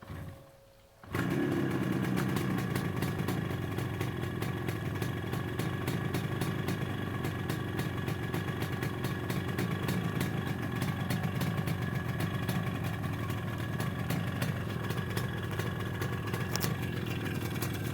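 1973 Yamaha RD350's two-stroke twin engine cold-starting after sitting: a short thump, then the engine catches about a second in and runs steadily at idle.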